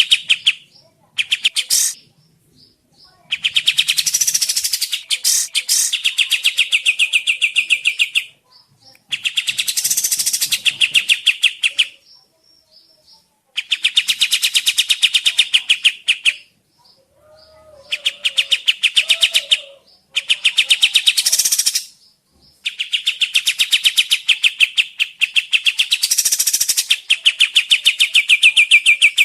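Kapas tembak bird song from a lure (pancingan) recording: long bouts of very rapid repeated chattering notes, each a few seconds long, separated by short pauses. A faint lower warbling call comes in briefly just past the middle.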